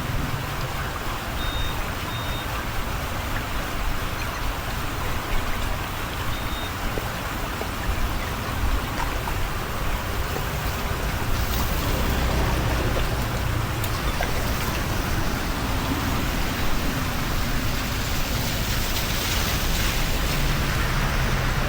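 Steady rush of rain and running water, with a low rumble underneath and a couple of faint short high beeps about two seconds in.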